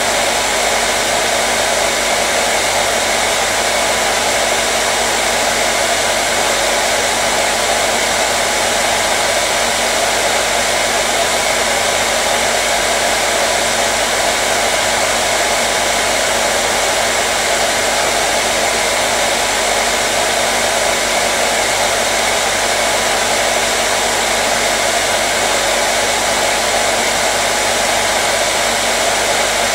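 Hair dryer running continuously, a steady, unchanging whoosh of blown air with a faint motor hum, played as white noise to calm a colicky baby.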